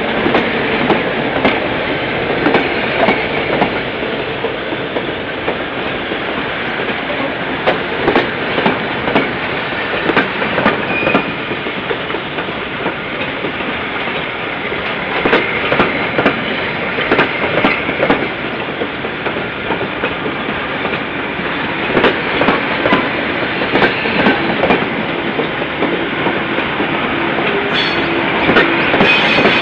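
Diesel-hauled passenger train running on the line, its wheels clicking irregularly over rail joints through a steady rush of rolling noise.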